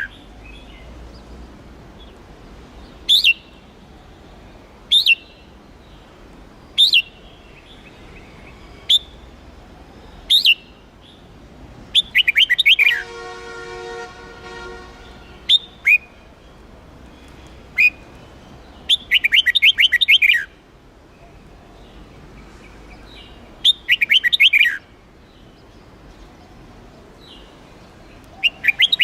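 Red-whiskered bulbul singing: short sharp chirps every couple of seconds, broken several times by longer, rapid warbling phrases. A fainter steady tone sounds for about two seconds midway.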